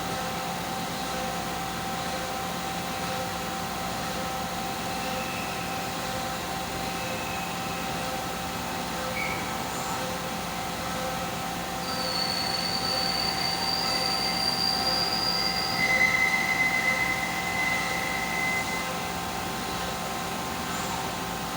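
A 5-axis CNC machine running with a steady mechanical hum. A high-pitched squeal rises over it about halfway through and holds for a few seconds, then gives way to a lower squeal.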